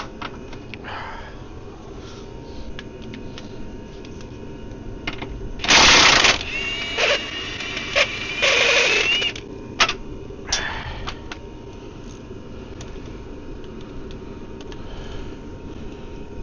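Hand tools clicking and clattering on metal while the wheel and suspension are taken apart, with a cluster of loud harsh rattling bursts about six to nine seconds in.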